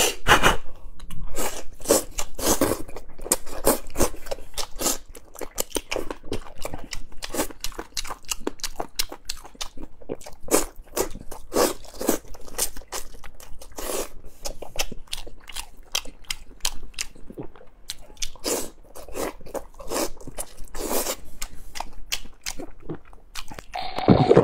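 Close-miked eating: a person chewing and crunching mouthfuls of chili-oil chicken with peanuts. Irregular sharp crunches and chewing noises come a few times a second.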